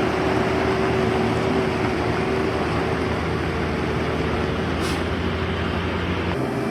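Heavy road-paving machinery running steadily: a constant engine noise with a held hum, a brief hiss about five seconds in, and an abrupt change in the sound shortly before the end.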